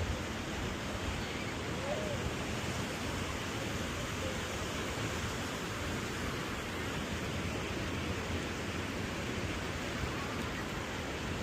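Steady rushing noise of ocean surf and wind on a beach.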